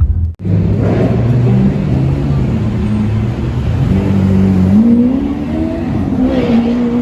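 Car engine running, its revs rising about two-thirds of the way through, then settling again. It starts abruptly after a brief gap near the beginning.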